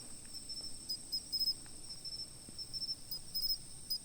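Insects chirping: one keeps up a steady, very high trill while another chirps in short, irregular pulses just below it.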